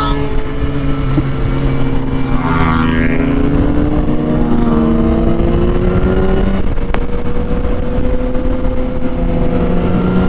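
Motorcycle engine running on the road with wind noise, its revs climbing slowly and steadily. A brief rush of noise comes about two and a half seconds in.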